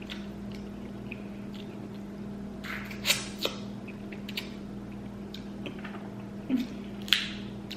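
Close-up eating sounds from a seafood boil: a few short, wet mouth sounds, about three seconds in and again near the end, over a steady low hum.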